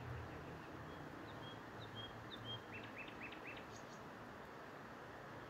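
A songbird calling: a run of short high chirps from about one second in, then a few quicker notes near four seconds in, over a steady background hiss.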